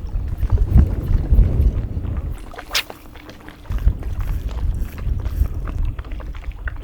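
Strong wind buffeting the microphone in gusts, a heavy low rumble that eases off for about a second midway, with one brief sharp hiss just before it returns.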